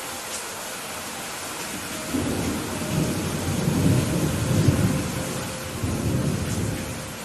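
Steady rain hissing, with a roll of thunder that rises about two seconds in, peaks midway and dies away near the end.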